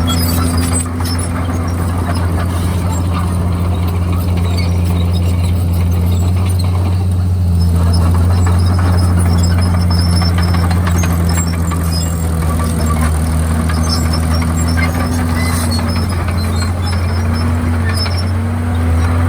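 Komatsu D51PX crawler bulldozer's diesel engine running steadily under load, its pitch dipping and recovering a few times near the end.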